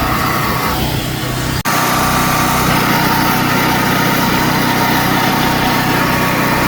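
Electric drill running steadily as it bores out a slot in knife handle material for a hidden tang, with a momentary break in the sound about a second and a half in.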